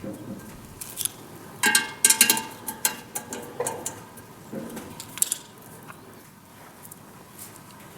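Metal fan parts knocking and clinking together as they are handled and fitted, with a cluster of louder ringing metallic clanks about two seconds in and scattered clicks after.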